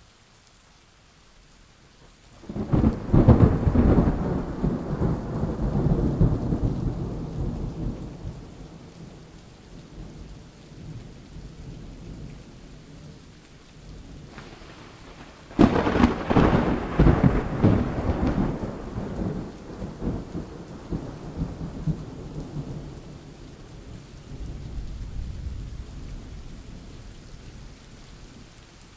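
Steady rain with two claps of thunder. The first breaks about two and a half seconds in and rolls away over several seconds. The second starts with a faint rumble, cracks sharply about halfway through, then rolls on, and a lower rumble swells again near the end.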